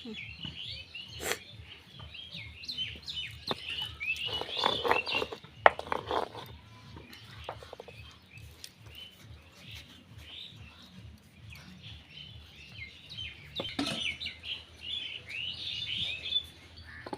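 Many small birds chirping in quick, overlapping calls, busiest early on and again near the end. A few sharp knocks and a short stretch of clatter come in around four to six seconds in; the loudest knock falls about six seconds in.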